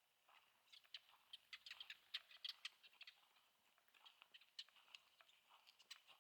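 Faint crunching footsteps on a dry trail, a quick run of gritty crackles with each step, loudest a couple of seconds in.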